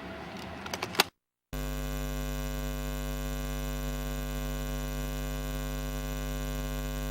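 Steady electrical mains hum with many overtones, starting after a brief dropout about a second and a half in; before it, a few sharp clicks over the last of the station noise.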